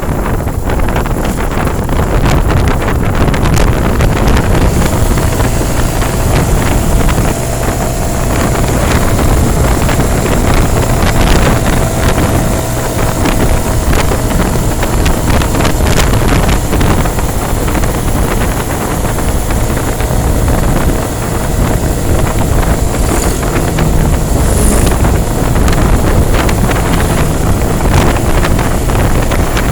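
Wind buffeting the microphone over the steady running and road noise of a moving vehicle, with a faint whine wavering in the middle.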